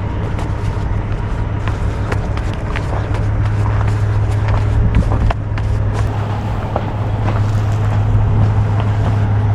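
Diesel engine idling steadily with a low, even hum, with scattered light clicks and knocks over it.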